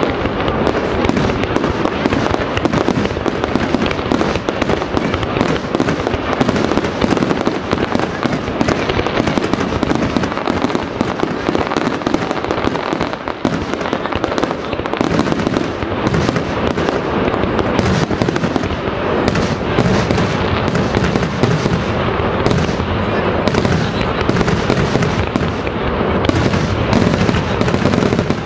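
Aerial fireworks bursting in rapid, overlapping succession, a loud continuous barrage of bangs with no pause between them.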